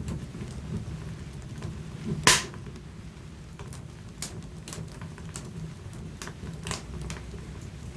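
Wood fire burning in a fireplace: scattered crackles and small pops over a low steady rumble, with one loud pop a little over two seconds in.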